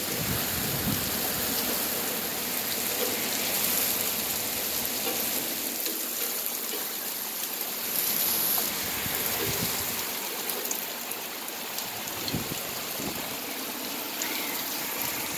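Thunderstorm rain falling steadily, an even, unbroken wash of rain sound.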